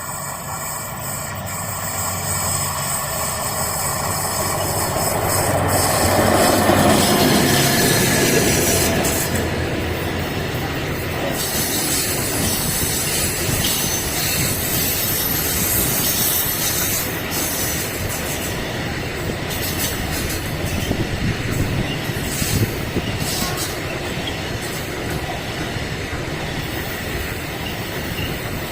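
A train passing close by on the line: it grows louder over the first seven seconds or so, then its cars keep rolling past with steady wheel and rail noise and scattered clacks.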